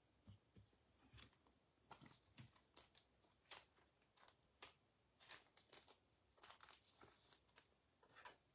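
Near silence, broken by faint scattered clicks and rustles of trading cards and their packaging being handled and sorted.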